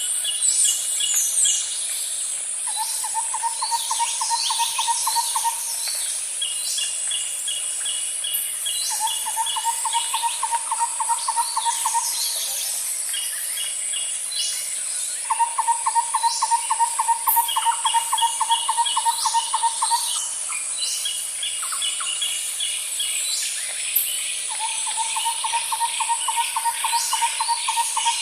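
Nature ambience of birds and insects: a steady, high-pitched insect drone underlies repeated trills that are low and evenly pulsed, each lasting a few seconds. Quicker, higher chirp series and short, scattered bird calls come and go over it.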